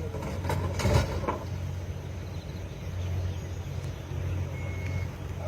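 Vehicle engine running steadily with a low hum, a few sharp knocks or clunks about a second in, and a short high beep near the end.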